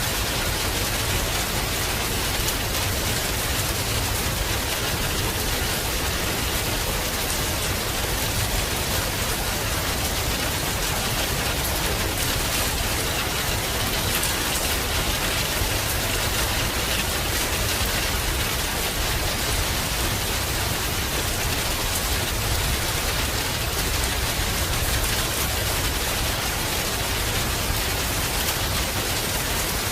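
Heavy rain falling steadily, a constant even downpour with no breaks or thunderclaps.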